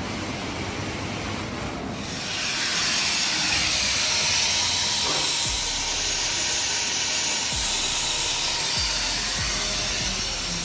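A steady hissing noise that grows louder about two seconds in, with a few faint low knocks near the end.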